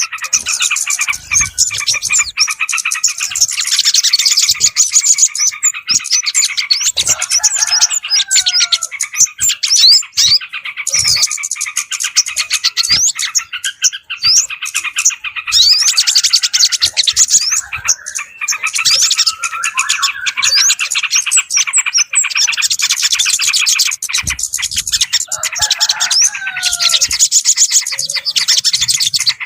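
Bird-lure recording of many small birds chirping and twittering densely and without a break, made to draw yellow-vented bulbuls (trucukan) and other small birds. Lower gliding phrases stand out twice, about seven and twenty-five seconds in.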